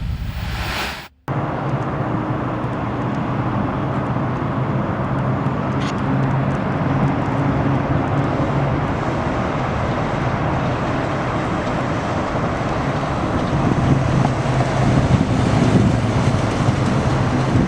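Engine of a 1971 Chevrolet C10 pickup running at a steady idle, with a brief break about a second in.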